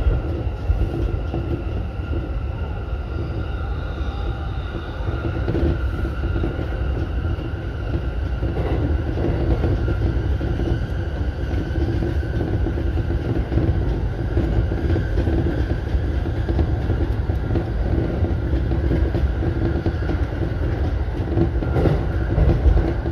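E233 series electric commuter train running at speed on elevated track, heard from inside the driver's cab: a steady rumble of wheels on rail with a faint steady whine above it and a few light knocks.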